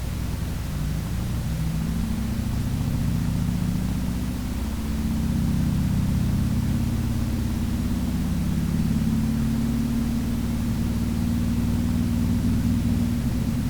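Harley-Davidson Sportster motorcycle engine running under way, its note climbing over the first few seconds, dropping briefly about four to five seconds in, then rising again and holding fairly steady, with a light rush of wind on the microphone.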